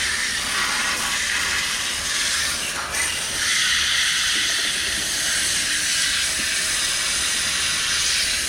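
Garden hose spray nozzle jetting water onto an air conditioner's outdoor condenser coil fins: a steady hiss with a brief dip about three seconds in.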